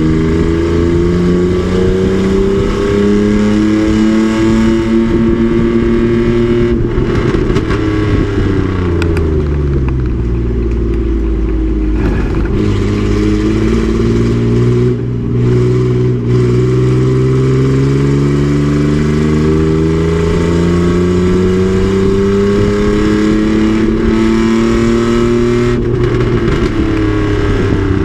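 Race truck's engine running hard at track speed: its pitch climbs slowly, drops steeply around the middle as it slows, then climbs gradually for a long stretch before dipping near the end.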